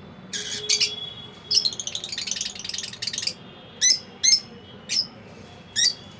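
Lovebird calling: two bursts of rapid, shrill chattering in the first half, then four separate sharp, high calls.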